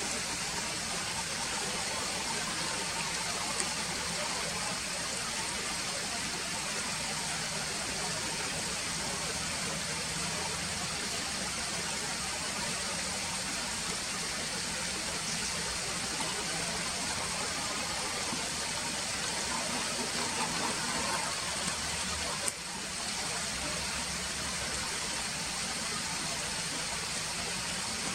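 Steady rushing noise of flowing water, with a single sharp click about three-quarters of the way through.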